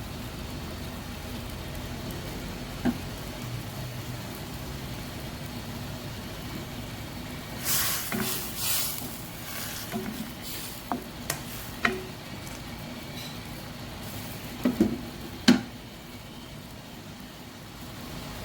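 Kaeng som broth in a wok coming to the boil: a steady bubbling hiss. Several short clinks and knocks come in the second half, the loudest about fifteen seconds in.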